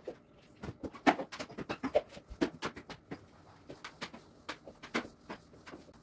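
A quick, irregular series of clicks and knocks from objects being handled during house cleaning.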